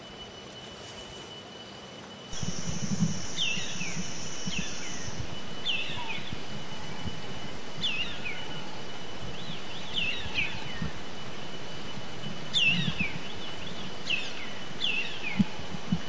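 Short whistled bird calls, each sliding down in pitch, repeated every second or two over a faint steady high tone. About two seconds in, the background gets suddenly louder and a steady high buzz starts, lasting about three seconds.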